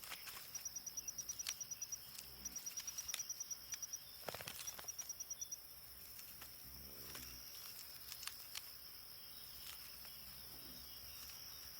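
Faint insects: a steady high-pitched buzz throughout, with trains of rapid cricket-like chirps over it in the first half and a few faint clicks.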